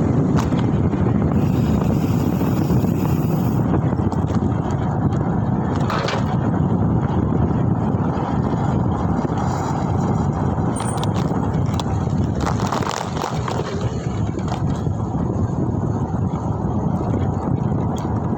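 Steady wind buffeting the microphone and road noise while riding a Mober S10, with a couple of brief sharper noises about six seconds in and again near thirteen seconds.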